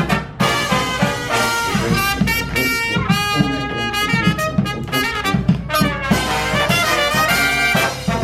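Live brass band playing an upbeat tune, with sustained horn notes over a steady low rhythmic pulse.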